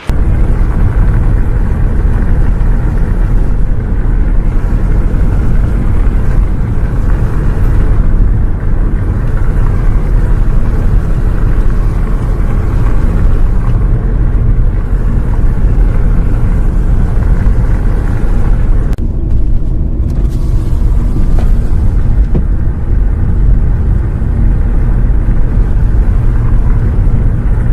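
Loud, steady low rumble of a bus ride heard from inside the bus: engine and road noise. It cuts in and cuts off abruptly.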